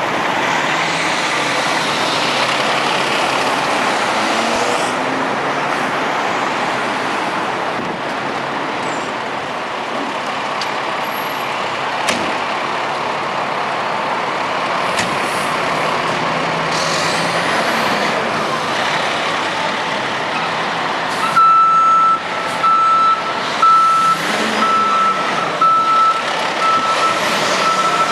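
Fire engine running, with a backup alarm beeping steadily and repeatedly through the last quarter as the rig reverses.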